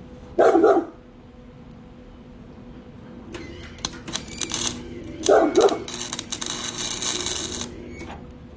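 A dog barks loudly once about half a second in and twice in quick succession about five seconds in. Between them, from about three seconds to near the end, an arc welder crackles while welding rebar.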